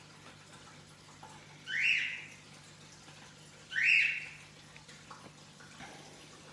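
Two short rising whistled calls of a bird, about two seconds apart, over the faint steady trickle and hum of the aquarium's water filter.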